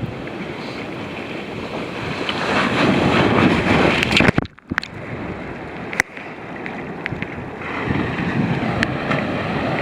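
Sea waves surging and washing around, with wind buffeting the microphone; the sound drops out abruptly for a moment about halfway through, and there are a couple of sharp clicks afterwards.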